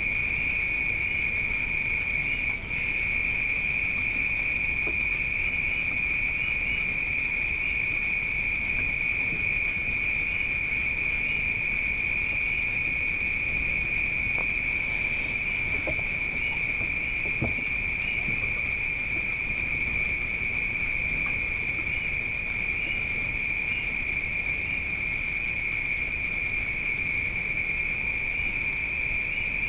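Night insect chorus of crickets trilling continuously at two steady high pitches, with a couple of faint taps in the middle.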